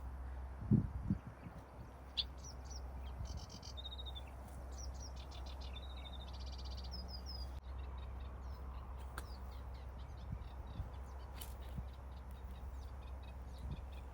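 Small birds chirping and singing in short trilled phrases over a steady low rumble of distant road traffic, with two low thumps about a second in.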